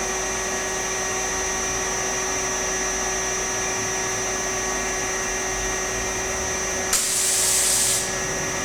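Airquip 15 kW variable-speed, oil-injected rotary screw air compressor running steadily under load with a constant whine, pumping its tank up toward full pressure. About seven seconds in a burst of hissing air lasts about a second, then stops.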